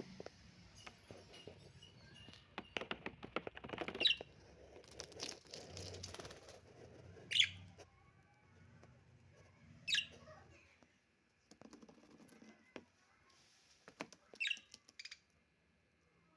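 Lovebirds giving short, sharp chirps that drop steeply in pitch, about five of them spread through the stretch, the loudest about seven seconds in. Between the calls, soft clicking and rustling as the birds move about.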